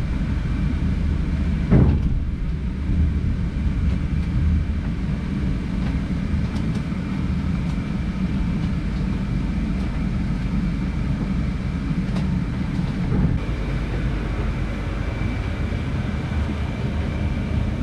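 Passenger train rolling along the track, heard from inside the carriage: a steady low rumble with a thin, steady high whine over it. There is a single sharp knock about two seconds in.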